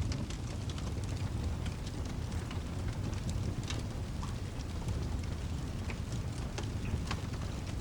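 Steady rain ambience over a continuous low rumble, with scattered sharp ticks and crackles throughout.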